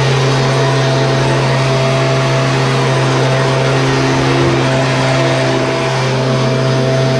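Small two-stroke engine of a Stihl line trimmer or leaf blower running steadily at an even, unchanging pitch.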